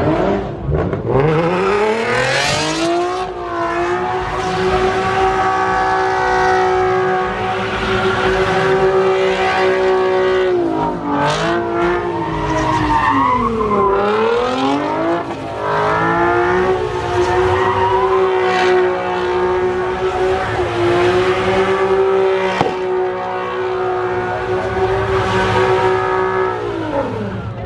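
Car doing donuts: its engine is revved up and held at high revs with tyres squealing. The revs sag and climb back twice midway and drop off near the end.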